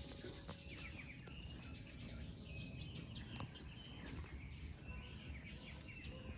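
Birds chirping, many short calls overlapping, over a steady low background rumble.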